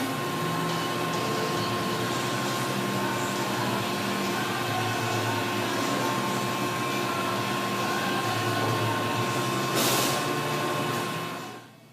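Hitachi Seiki HiCell 23SII CNC lathe running: a steady machine hum with a high whine and low tones that step in pitch. A brief rush of hiss about ten seconds in, then the sound drops away just before the end.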